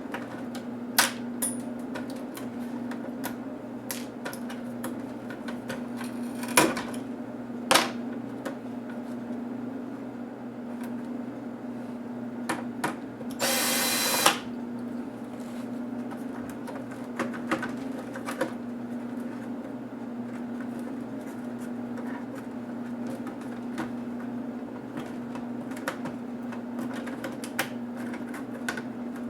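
Hand work on a laptop's plastic case and screws: scattered clicks and taps, with one brief whirr about a second long midway, over a steady low hum.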